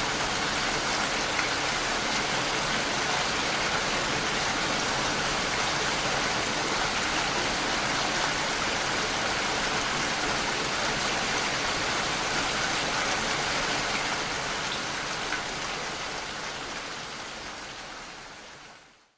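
Steady rain falling, an even, dense hiss that fades out over the last few seconds.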